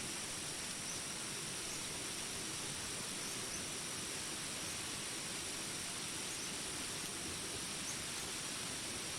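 Steady hiss of rain with a constant high-pitched drone of jungle insects, and a short high chirp repeating a little more often than once a second.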